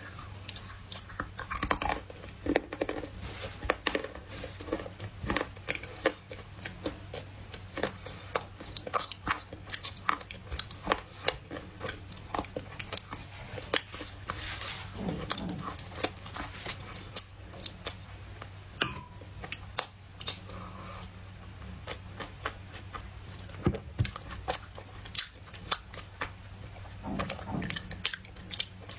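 A person biting and chewing lumps of dry loess clay: many sharp, irregular crunches throughout, over a steady low hum.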